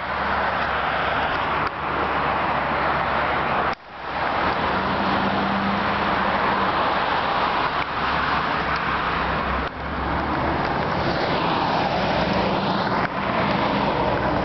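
Steady road noise of a moving car: a rushing hiss with a low engine hum underneath, briefly cutting out about four seconds in.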